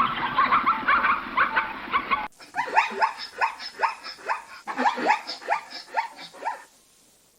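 Zebra barking: a run of short yelping calls, each falling in pitch, about three a second. A different, denser clip of animal calls is cut off suddenly about two seconds in.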